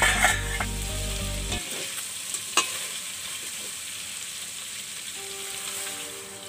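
Chicken pieces sizzling in a hot aluminium pot as a ladle stirs them. There is a clatter of metal at the start and a sharp clank of the ladle against the pot about two and a half seconds in.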